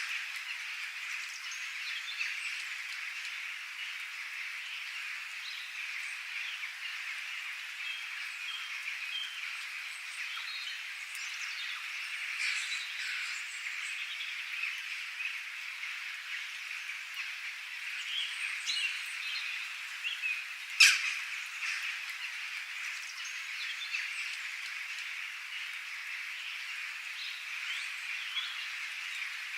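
Outdoor nature chorus: a steady, high-pitched wash of many small calls, with scattered bird chirps over it. One sharp crack about 21 seconds in.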